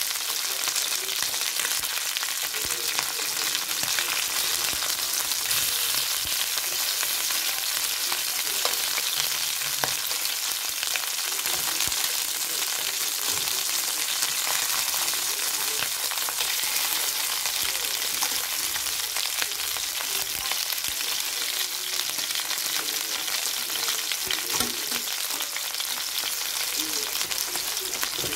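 Chicken drumsticks sizzling in oil in a stainless steel frying pan, a steady high hiss. A few light clicks of metal tongs against the pan come through as the pieces are turned.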